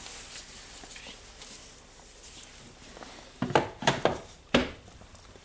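Faint handling noise, then a quick cluster of four or five sharp clicks and knocks about three and a half seconds in, from small parts of a rotary hammer's gear mechanism being handled and fitted by hand.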